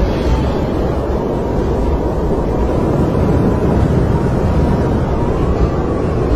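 Snowstorm wind blowing steadily as a dense low rush, with a faint thin whistle that wavers slightly about five seconds in.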